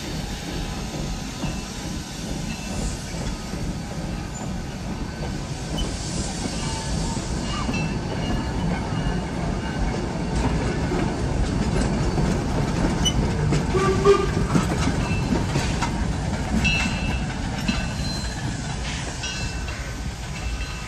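Steam train running past: a steady rumble that builds to its loudest about fourteen seconds in and then eases off, with metallic clanks and short wheel squeals in the later part.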